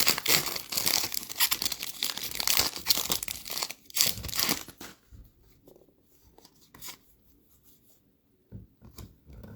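Wrapper of an NBA Hoops trading card pack being torn open and crinkled, with dense crackling for about five seconds, then only faint rustles and clicks as the cards are drawn out.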